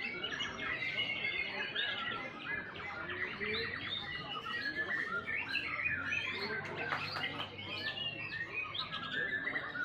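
White-rumped shama singing a continuous, varied song of rapid whistles, trills and chatters.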